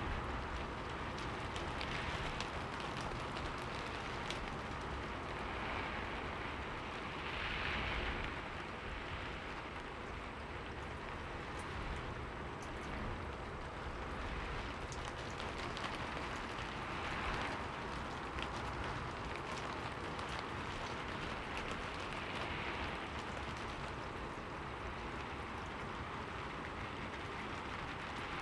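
Steady rain falling on a window, a continuous hiss of drops with fine individual taps and a few gentle swells in intensity.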